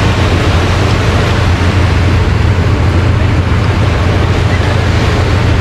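Steady ocean surf with wind rumbling on the action camera's microphone, a loud even noise with a strong low rumble.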